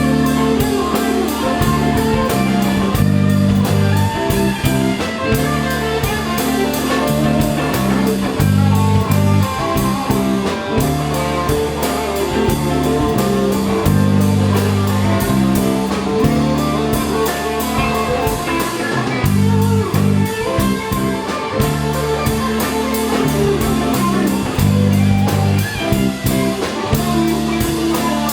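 A band playing instrumental blues: electric guitar over bass and a drum kit keeping a steady beat.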